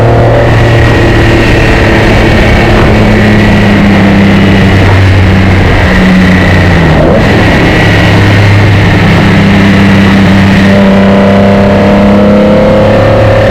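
1976 Nissan S30Z's modified L28 straight-six running loud and steady under way, its pitch dipping briefly about halfway through before settling again.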